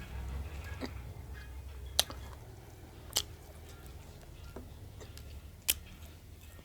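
Short sharp clicks of eating at a table, food and dishes being handled: about five in all, the loudest about two, three and nearly six seconds in, over a low steady hum.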